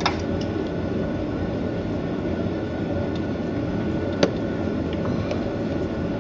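Steady low rumbling noise with a faint hum running through it, and a single sharp click about four seconds in.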